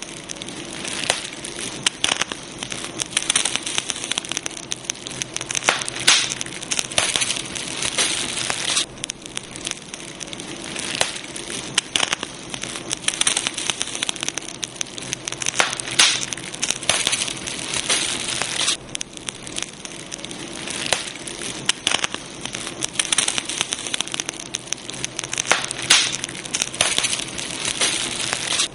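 Campfire burning wood, crackling steadily: a constant hiss with dense, irregular pops and snaps, some louder than others.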